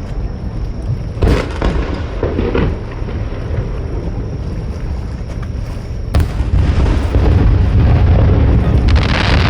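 Aerial fireworks bursting: a sharp bang about a second in followed by a spell of crackling, then another bang about six seconds in. A heavy low rumble runs underneath and grows louder after the second bang.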